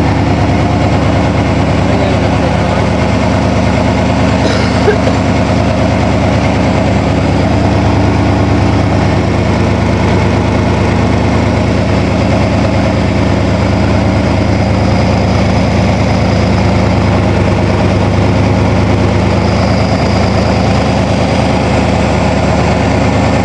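Chevrolet 350 Vortec V8 idling steadily, loud, its exhaust only hanging loose on the manifolds and not yet welded up. A single short click sounds about five seconds in.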